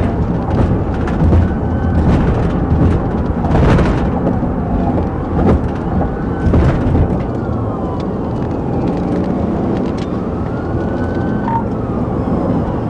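Police siren wailing in slow rising-and-falling sweeps over loud, steady vehicle and road rumble during a pursuit, with a few sharp knocks.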